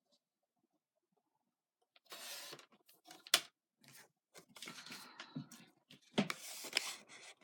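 Rustling of paper and packaging being handled on a craft table, with a few sharp clicks and taps, the loudest a little after three seconds in.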